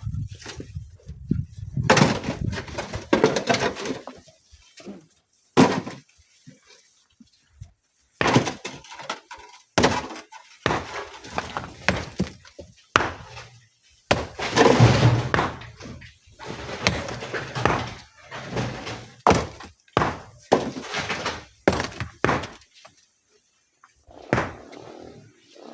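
Rocks being broken and loaded into a dump truck: irregular knocks, heavy thuds and clattering of stone, coming in clusters with short pauses between.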